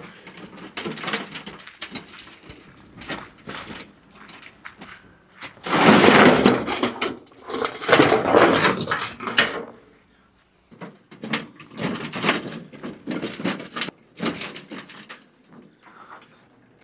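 Old sauna stones knocking and clattering against each other as they are handled, with a louder stretch of rattling in the middle.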